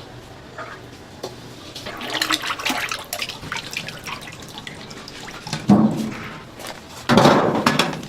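Water splashing and pouring in irregular bursts, with the two loudest splashes near the end.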